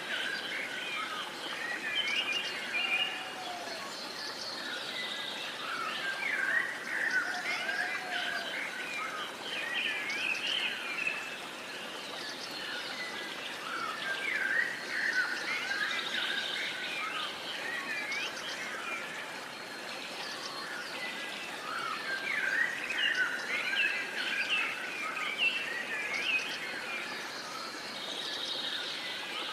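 Several songbirds singing and chirping at once, a busy overlapping chorus of short warbles and chirps over a soft steady background hiss.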